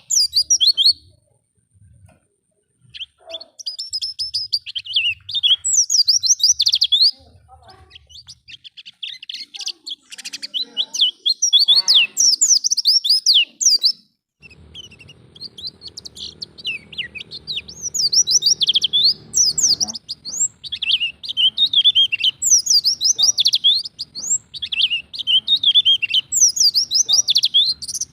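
White-eye (pleci) singing a fast, high twittering song in long runs of rapid chattering phrases, the ngalas singing style. There is a brief lull a second or so in and another short break about halfway.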